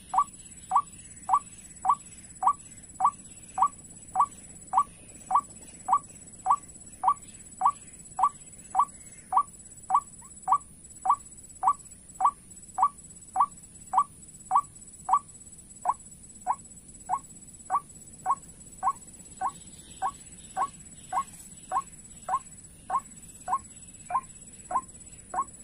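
White-breasted waterhen call played on a loop from a bird-lure speaker: one short rising note repeated at an even pace, almost two a second, used to draw waterhens to the snares.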